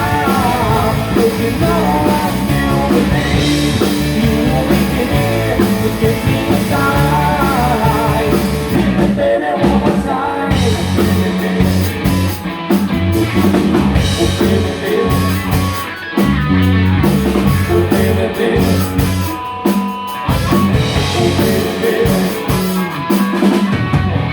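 Live rock band playing with drum kit and electric guitar, with singing over the first part. It is a loud, full-band rock cover of a pop song, heading toward the song's close.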